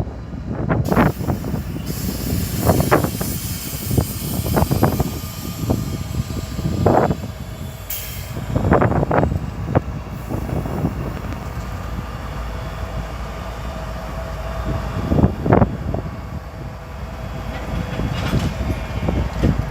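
Train rolling past, a steady low rumble broken by irregular clanks and knocks from the wheels and cars, with a faint steady squeal in the middle stretch.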